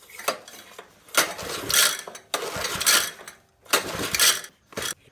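Recoil pull-starter of a Honda 200cc small engine being yanked several times, the rope and starter pawls ratcheting on each pull, with three long pulls about a second apart. The engine turns over but does not catch.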